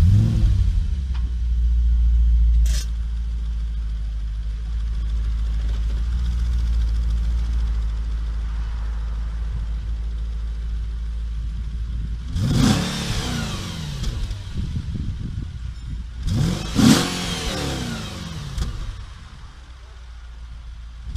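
2006 Audi RS4 B7's 4.2-litre naturally aspirated V8 firing up with a loud flare, running at a raised idle that drops about three seconds in, then idling steadily. In the second half it is revved twice, each rev rising and falling, the second one louder.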